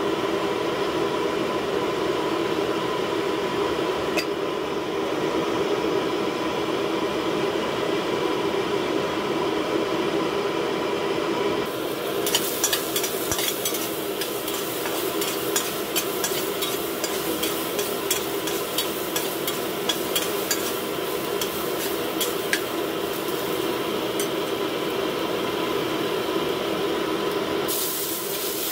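Minced garlic sizzling and crackling in hot oil in a steel wok, starting about twelve seconds in, over a steady kitchen hum. Near the end the crackle gives way to a denser, even hiss as sea cucumber pieces go into the oil.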